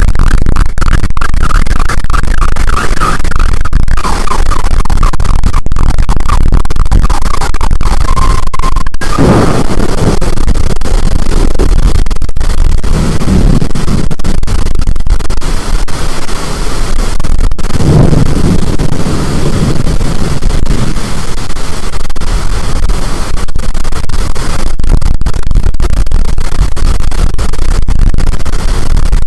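Storm wind blasting the microphone, overloading it into a loud, constant, distorted rush, with a wavering high whistle through the first nine seconds or so.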